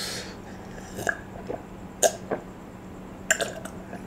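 Close-up eating sounds: chewing with a few sharp mouth clicks and smacks, over a faint steady hum.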